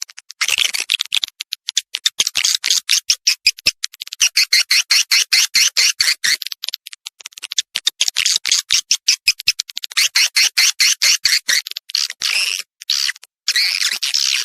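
Edible-nest swiftlets calling: rapid, high chittering trills of many short chirps a second, in runs of a second or two broken by brief pauses.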